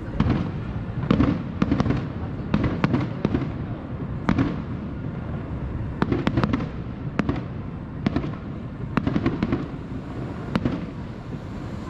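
Fireworks display: a rapid series of sharp bangs and cracks, some in quick clusters, over a steady low rumble of bursting shells.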